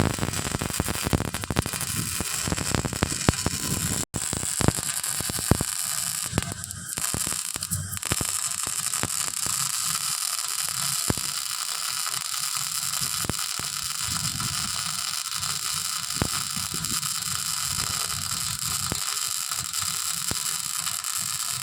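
MIG welding arc crackling and sizzling steadily, with a brief break about four seconds in.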